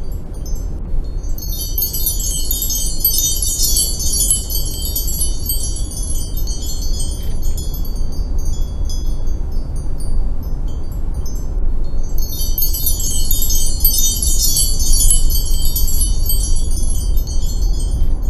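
Bright, high tinkling chime-like tones in two spells of several seconds each, over a steady low rumble inside an automatic car wash tunnel.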